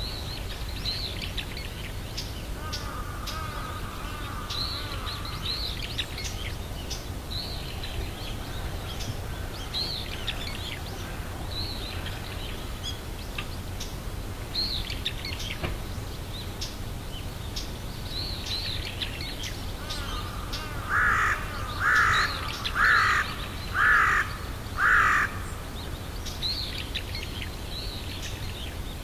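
Outdoor birdsong: many small birds chirping throughout, with five loud calls about a second apart near the end, over a steady low rumble.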